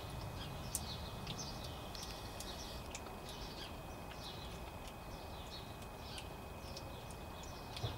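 Small birds chirping and calling again and again over a steady low background hiss, with a couple of sharp clicks, one about a second in and one near the end.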